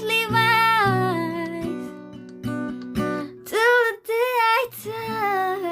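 A woman singing held, gliding notes over a strummed acoustic guitar.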